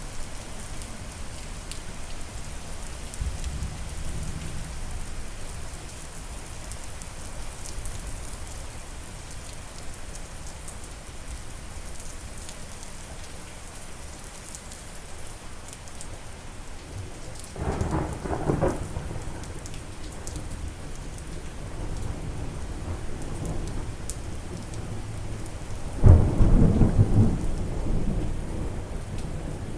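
Steady rain with two thunder rumbles: one a little past halfway, and a louder, sudden one near the end that slowly fades.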